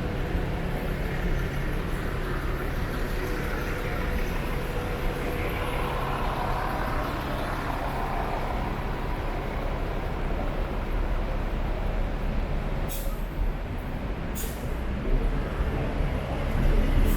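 City street traffic: a steady wash of vehicles, with a heavier vehicle passing midway. Near the end come two short, high hisses, typical of a bus or truck releasing its air brakes.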